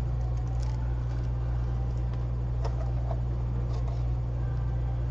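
Steady low machine hum from repair-bench equipment, with a few faint light ticks over it.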